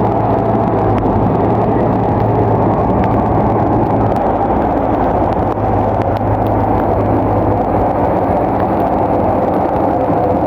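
Bulldozer's diesel engine running steadily under load, a constant low drone with a few faint clicks over it.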